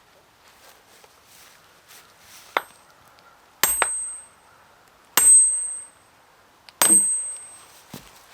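Firewood being split by hand: three hard strikes about a second and a half apart, each with a bright metallic ring, with a couple of lighter knocks before and after.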